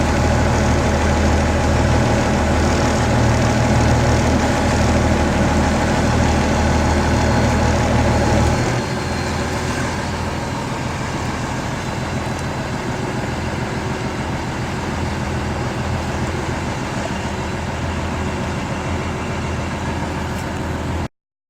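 Fishing boat's engine running steadily, dropping to a quieter, lighter run about nine seconds in. The sound cuts off suddenly near the end.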